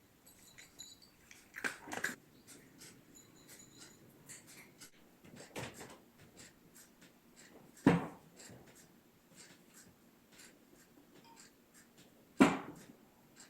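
Firewood being split and handled: a series of sharp wooden knocks and thuds, the two loudest about eight and twelve seconds in, with lighter clicks and taps between.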